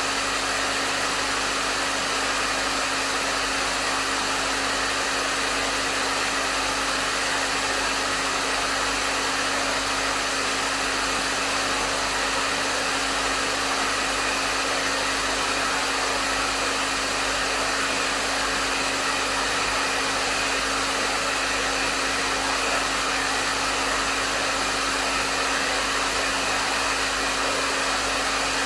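Hair dryer running steadily at medium setting: a constant rush of air with a steady motor hum underneath.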